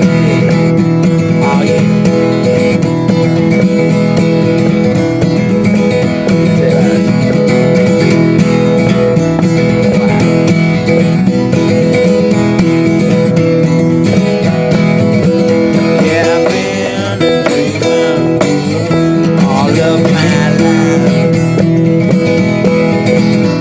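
Acoustic guitar playing a continuous country-blues style tune, with a wavering higher melody line over it about two thirds of the way through.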